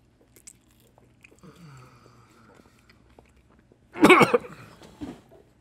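Men chewing mouthfuls of buttered toast, with faint mouth clicks and a low hum. About four seconds in, a man lets out a loud, short groan of disgust at the taste.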